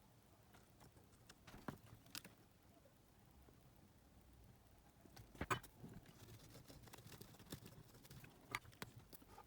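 Near silence with a few faint, scattered clicks and taps of small hand tools working on a cassette player's circuit board.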